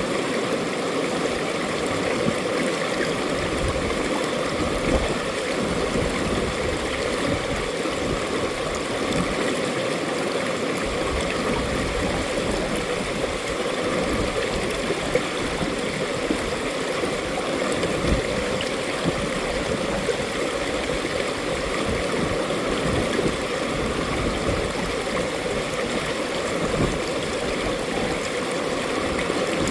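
Mountain valley stream flowing, a steady rushing and gurgling of water.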